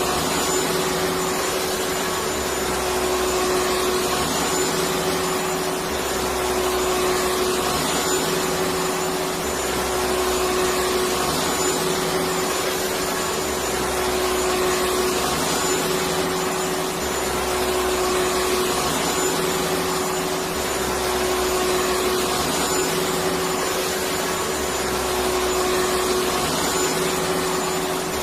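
Electric vacuum cleaner running steadily: a continuous rushing of air with a steady motor hum, and a low rumble that swells and fades about every three seconds.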